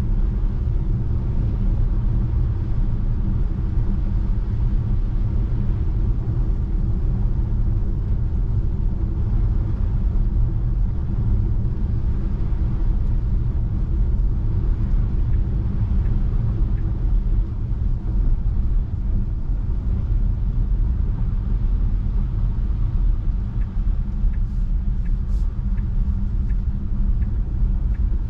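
Steady low rumble of tyre and road noise from a Tesla Model 3 driving on a snow-covered road, with no engine note since the car is electric.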